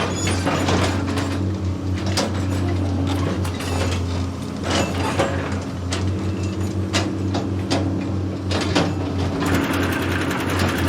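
Heavy construction machine's engine running steadily, with irregular metal clanks and knocks from the machine working.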